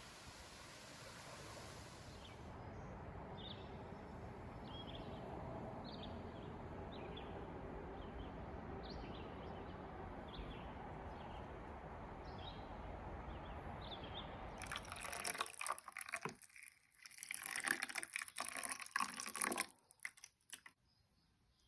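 Steady rush of water with a string of short, high bird chirps over it. About fifteen seconds in, louder irregular splashing takes over for several seconds, then stops abruptly.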